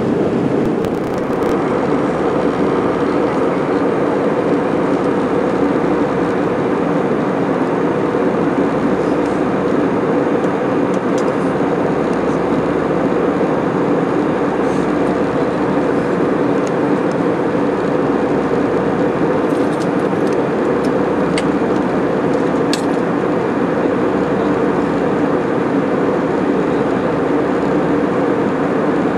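Airliner cabin noise: the steady, even rumble of the engines and air, with no change in pitch or level.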